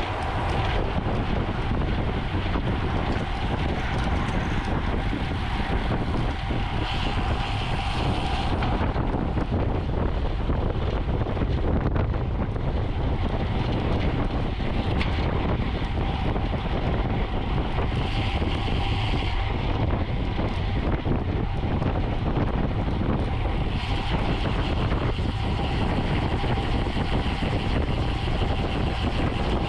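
Steady wind rushing over the microphone of a camera moving with a bicycle at race speed, mixed with tyre and road noise.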